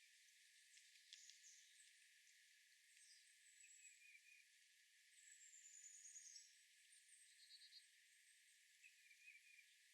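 Faint wild birds chirping over a steady outdoor hiss, with a falling trill about five seconds in.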